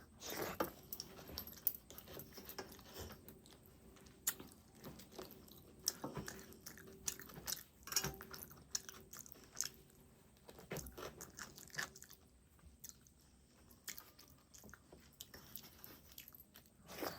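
A person chewing and biting rice with spicy chicken curry close to the microphone, with irregular crunches and clicks of the bites.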